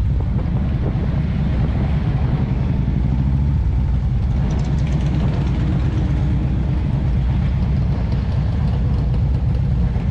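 Motorcycle engines running steadily and loudly, with a fast low pulsing beat.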